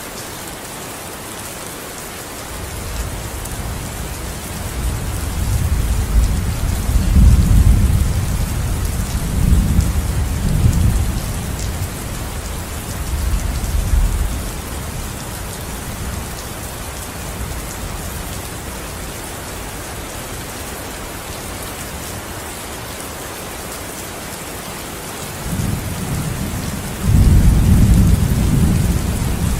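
Steady rainfall with thunder: a long, rolling rumble of thunder that builds from a few seconds in and fades by about halfway, then a second, louder peal near the end.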